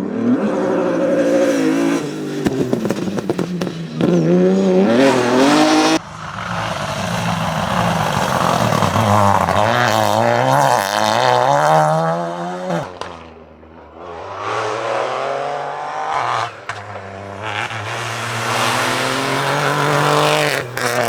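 Rally car engines revving hard, rising and falling in pitch through gear changes as cars pass at speed, across several shots cut abruptly together.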